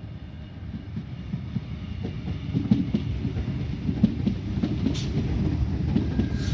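Sydney Trains Tangara electric multiple unit running past close by, its wheels rumbling and knocking over the rail joints. It grows louder about two seconds in as the carriages draw alongside.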